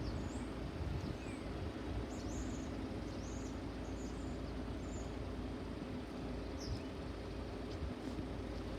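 Small birds chirping now and then, short high calls over a steady low rumble with a faint hum.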